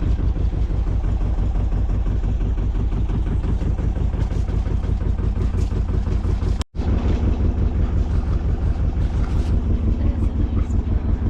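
Boat engine running steadily under way, a low drone with a fast, even pulse. It cuts out for an instant about two-thirds through and comes straight back.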